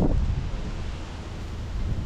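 Wind blowing over the microphone, a steady low rumble of noise.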